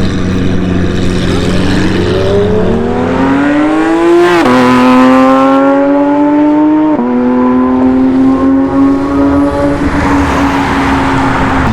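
A performance car's engine accelerating hard through the gears: the note climbs, then drops at an upshift about four seconds in and at another about seven seconds in, then holds a steady note.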